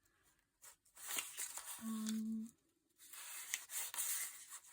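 Tissue paper being handled and torn, a crisp rustling in two stretches about a second apart, with a brief steady hummed note in the middle of the first.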